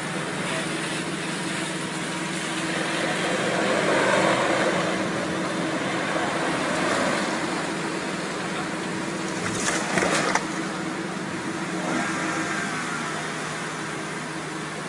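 A car driving, with steady engine and road noise and a low hum. About ten seconds in comes a short, sharp burst of noise.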